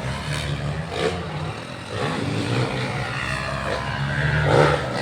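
Motocross dirt bike engines running and revving, rising and falling in pitch, with a short louder burst near the end.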